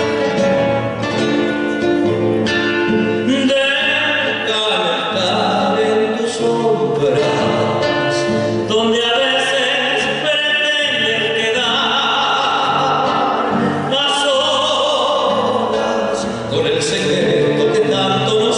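Live folk song: a singer holding long notes over instrumental accompaniment.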